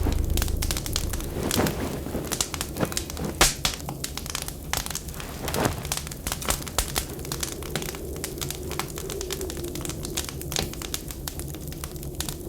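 Wood fire crackling in a fireplace, with frequent irregular sharp pops over a low steady rumble.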